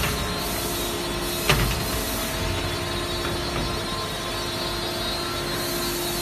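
Large milling machine running steadily while machining the bed of a fiber laser cutting machine, a machine noise with several steady tones. There is one sharp metallic knock about one and a half seconds in.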